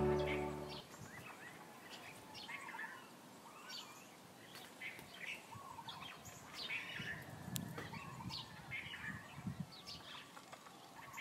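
Music fading out about a second in, then songbirds chirping and calling in short, scattered rising and falling notes.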